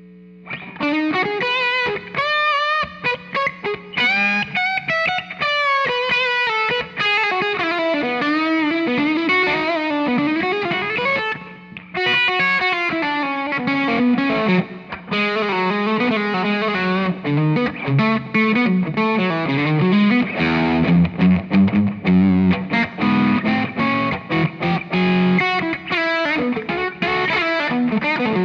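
Electric Telecaster-style guitar played through a J. Rockett Chicken Soup overdrive pedal, a smooth Dumble-style overdriven lead. Single-note lines with bends and vibrato, turning to faster, choppier phrases after a brief pause about halfway through.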